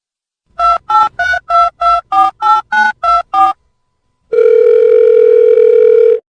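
Telephone keypad tones: ten quick two-tone beeps at about three a second. After a short gap comes a steady single tone, held about two seconds before it cuts off.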